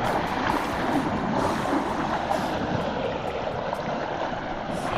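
River water rushing steadily around the legs of people and elephants wading in a shallow river.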